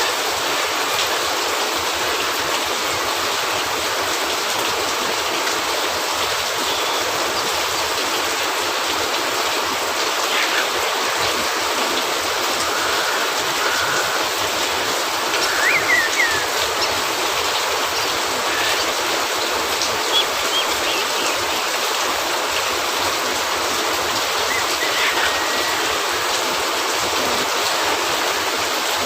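Steady rain hissing on a cabin roof, with a few brief pops and crackles of a wood fire, the loudest about halfway through.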